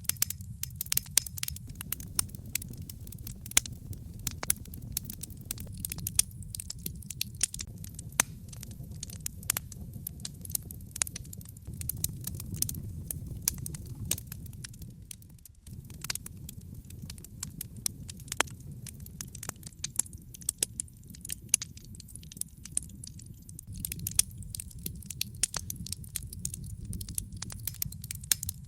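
Logs burning in a fireplace, crackling with frequent sharp pops and snaps over a low, steady rumble of the flames.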